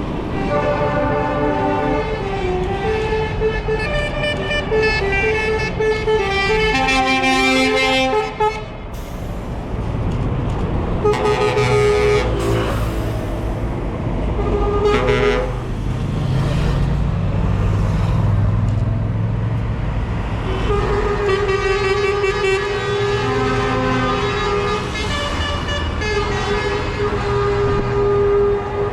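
Several truck air horns sounding together in long blasts of overlapping steady tones, broken by a few short blasts midway. Between the blasts there is a low rumble of truck engines passing.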